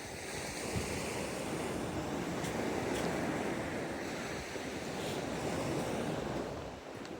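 Sea waves washing onto the beach: a steady rushing noise that swells and eases, with some wind on the microphone.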